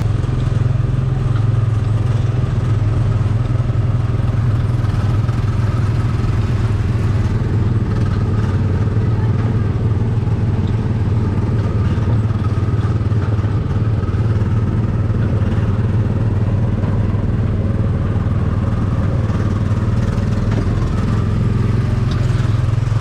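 Small gasoline engine of a Tomorrowland Speedway car running steadily with a loud, even low drone, heard from on board.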